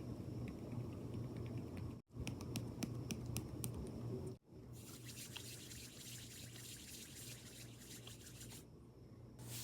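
Close-miked makeup handling sounds over a steady low electrical hum: light ticks and clicks at first, then a dense crackly, slightly wet rustle. The sound cuts out abruptly twice, at edit cuts.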